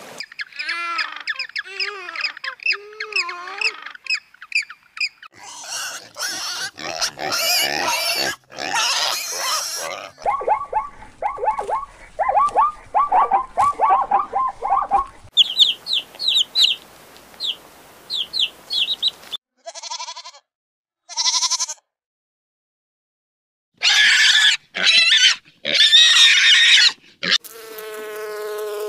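Farm animal calls in a run of short clips, a different animal every few seconds, with squealing pigs among them and a short silent gap partway through.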